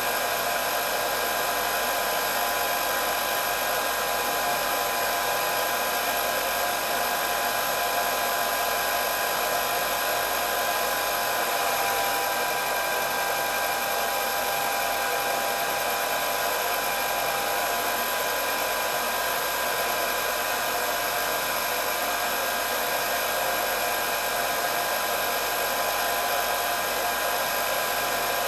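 Hair dryer running steadily: a rush of blown air over a constant motor whine, with no change in speed.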